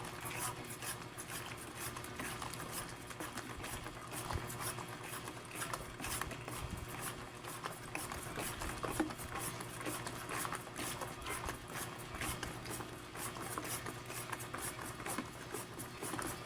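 Rapid, irregular scraping and ticking, as of hand work in a kitchen, over a steady low hum.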